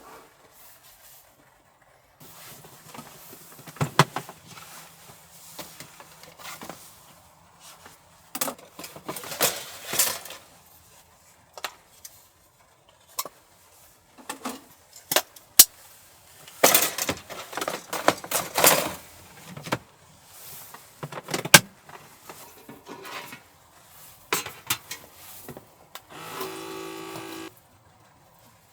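Objects being handled: rustling, sharp clicks and clattering knocks at irregular intervals, with a short buzzing hum near the end.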